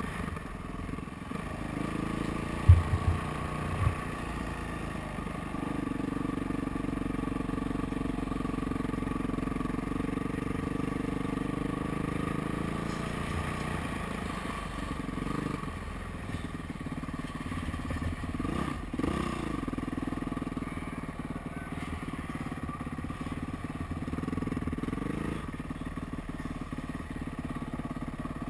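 Motocross dirt bike engine revving up and falling back again and again as it is ridden around a track, heard close on board. About three seconds in come a few short, heavy thumps, the loudest sounds in the stretch.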